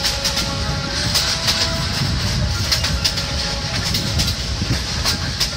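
Mini toy train running along its narrow track, heard from an open carriage: a steady wheel rumble with irregular clicks as the wheels pass the rail joints.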